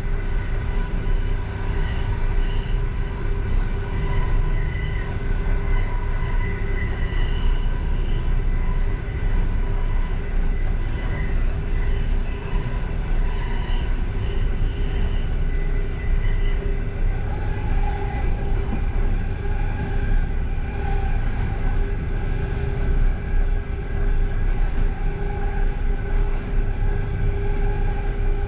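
Passenger train running at speed, heard from inside the last car: a steady low rumble of wheels on rail with a few steady whining tones over it. One of the tones drops lower about two-thirds of the way through.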